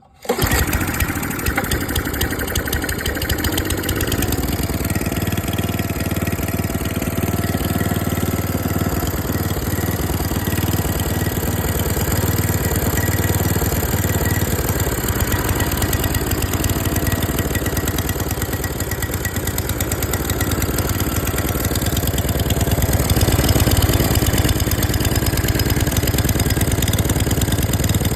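Tecumseh single-cylinder small engine running steadily, cutting in suddenly at the very start and holding an even speed, a little louder for a moment near the end.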